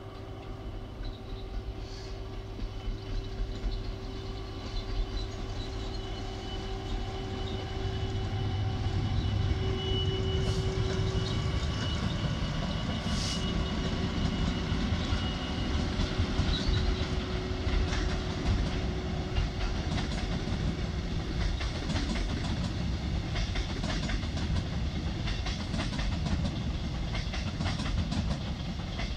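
The Caledonian Sleeper, hauled by a Class 66 diesel and a Class 73 locomotive, crosses a steel girder viaduct. The locomotives' engines rise in level over the first several seconds as they come across. A long line of sleeper coaches follows with rhythmic wheel clatter over the rail joints.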